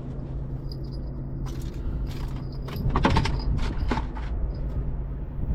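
Steady low engine hum, with a run of sharp metallic clinks and rattles from about one and a half to four seconds in.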